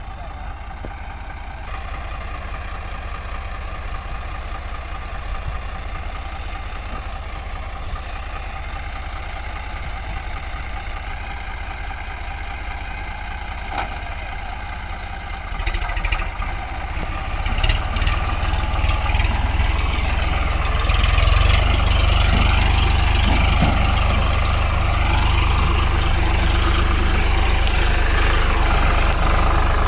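Tractor engine running, steady at first, then louder from about halfway through, with revs rising and falling.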